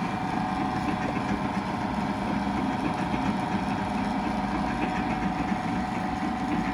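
Dual-motor stone bead milling machine running steadily, its two electric motors turning the diamond disc and the top cover in opposite directions: a steady motor hum with a high, even tone. It is partway through a 20-second timed run, after which the timer stops it.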